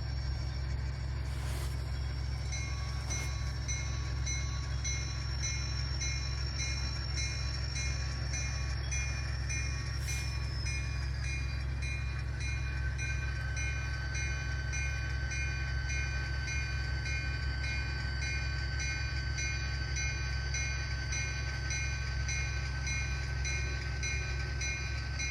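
Sound decoder of an ESU LokSound-equipped N-scale model locomotive playing its locomotive sounds through a small speaker: a steady engine rumble with a rapid repeating bell-like ring of a few strokes a second. About halfway through, a high whine in the engine sound drops slightly in pitch.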